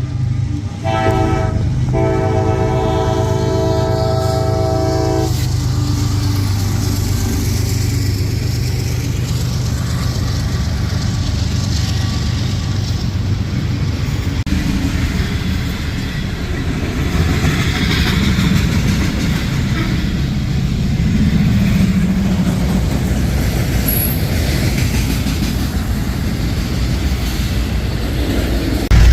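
Five-chime Nathan K5LA air horn on a CSX GE ES40DC locomotive, sounding a chord that breaks twice briefly and stops about 5 seconds in. Then a freight train's diesel locomotive and cars pass with a steady rumble and wheel-on-rail noise.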